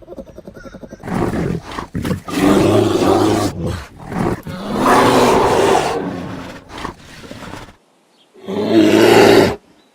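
Bear growling and roaring in long, rough bouts, starting after about a second of fast low pulsing. There is a short break near the end, then one more roar.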